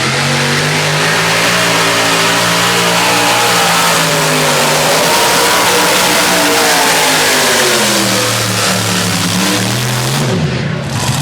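High-horsepower pulling tractor engine running flat out through a pull, its pitch swelling and sagging a little under load. About ten and a half seconds in, the pitch drops sharply as the throttle comes off.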